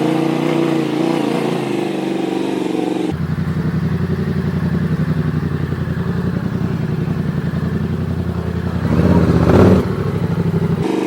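Yamaha XSR700 parallel-twin motorcycle engine running steadily at low revs, then about three seconds in the sound changes abruptly to a lumpy, pulsing idle. About nine seconds in there is one short blip of the throttle, then it settles back to idle.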